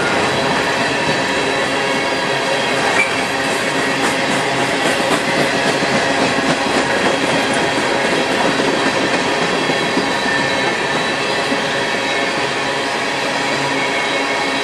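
BNSF freight train cars rolling past: a steady rumble and rattle of wheels on the rails, with faint clicks in the middle stretch.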